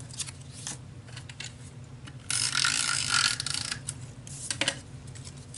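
Handheld adhesive tape runner rolling a strip of tape along paper for about a second and a half, a rough ratchety whir with a steady whine, amid small clicks and taps of paper being handled.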